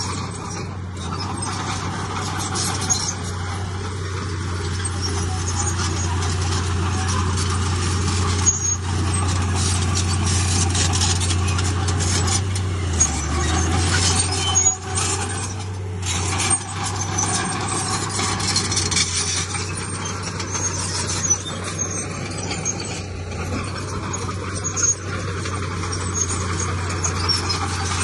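Heavy diesel earthmoving machinery running steadily, its engine hum dipping briefly about halfway through, with scattered clanks and knocks.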